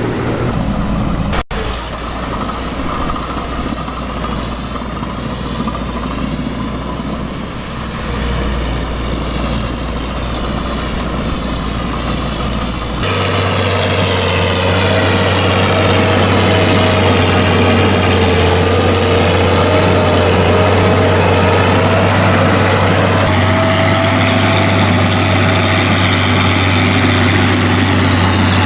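Tractor engine running steadily under load, with a high, steady whine over it in the first part. About halfway through the sound changes abruptly to a louder, steady engine run.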